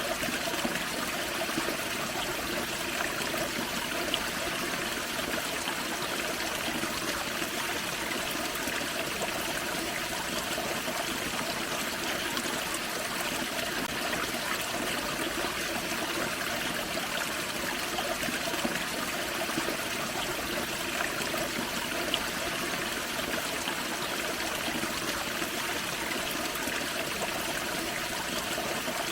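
Small forest waterfall and creek: water spilling and splashing over rocks in a steady rush, with small splashes ticking through it.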